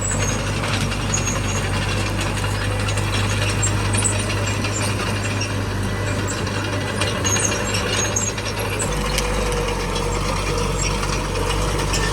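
Small crawler bulldozer working: its diesel engine runs steadily under a dense metallic clatter from the tracks and undercarriage. The engine note shifts slightly about nine seconds in.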